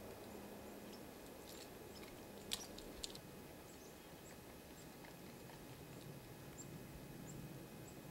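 Faint, short, high chips from small birds at a feeder, scattered through, with two sharp ticks about two and a half and three seconds in, over a faint steady low hum.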